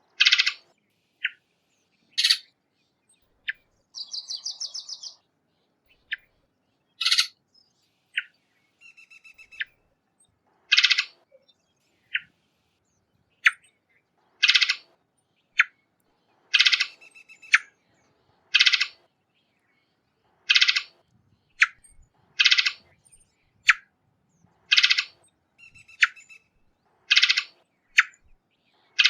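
Varied thrush giving short, harsh call notes about every two seconds, with softer short notes between them. A brief buzzy chatter comes about four seconds in, and a quieter pulsed series follows around nine seconds.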